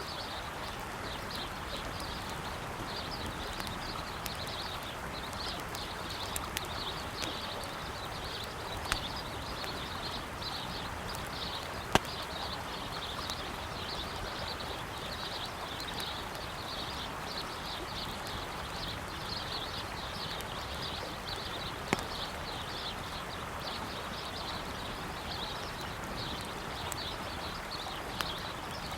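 Campfire crackling beside a steadily flowing river: a few sharp pops from the burning wood, the loudest about 12 and 22 seconds in, over the constant rush of water. Small birds chirp continuously in a high register.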